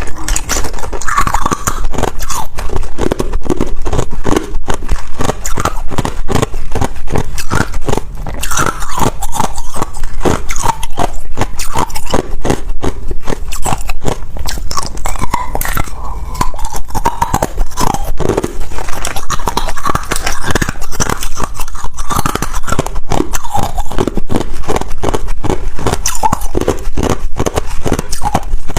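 Ice being bitten and chewed: a loud, continuous run of crisp crunches, several a second.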